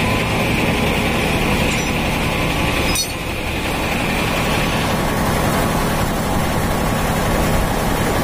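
Kubota M8540 tractor's diesel engine running steadily, with a sharp knock about three seconds in, after which the sound is a little quieter for a moment.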